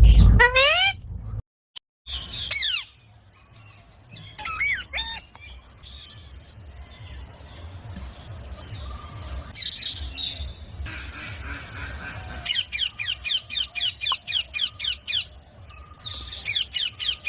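Pet parrot calling: a few sweeping squawks in the first five seconds, then a fast run of sharp repeated calls, about four a second, from about twelve seconds in, and another short run near the end.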